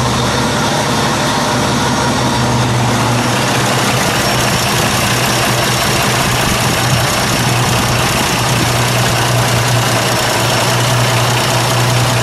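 1919 Pierce-Arrow Model 51's 525-cubic-inch dual-valve six-cylinder engine idling steadily, heard close to the open engine bay.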